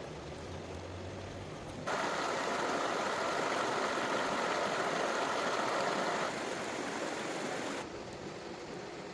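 River water flowing steadily as a noisy rush. About two seconds in it steps abruptly louder and brighter, eases a little near six seconds, and drops back to the quieter rush near eight seconds.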